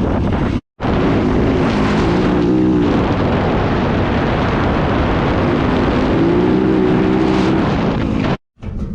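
Dirt bike engine running under way along a trail, its note rising and falling with the throttle. The sound cuts out for a moment shortly after the start and again near the end.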